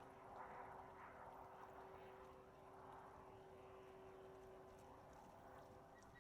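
Near silence: faint outdoor background with a thin, steady hum.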